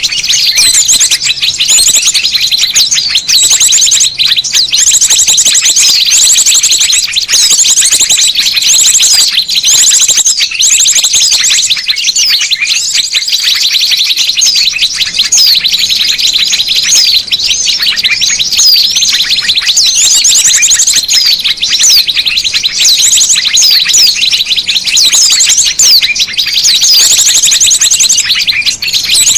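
Many small birds chirping, trilling and twittering at once in a loud, dense chorus of fast repeated notes and short rising and falling whistles: a bird-luring call track meant to draw small birds in.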